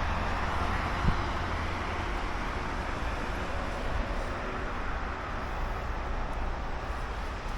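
Steady hiss of rain falling, with a low steady rumble underneath.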